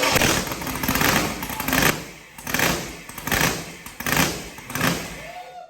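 Freshly built 408 cubic-inch LS stroker V8 with open header pipes running just after its first start, loud and uneven, swelling and dropping about every three-quarters of a second, then dying away near the end. It is on an untuned stock computer and running rich.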